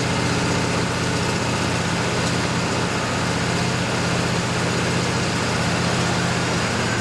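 Wood-Mizer LT40 sawmill's engine running steadily with an even low hum.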